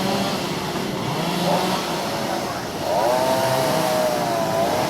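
Chainsaw engine running with its pitch wavering; about three seconds in it revs up sharply, then slowly sags, as under load in the wood.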